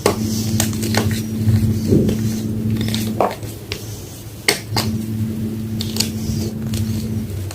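Homemade gym chalk block being crushed and crumbled by hand: irregular sharp crunches and crackles, several in a second at times, with a low steady hum in the background that breaks off twice.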